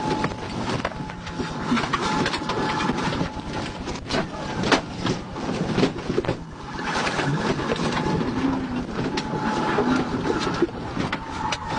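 Police cruiser in pursuit: engine and road noise with many rattles and clicks, and a faint steady tone.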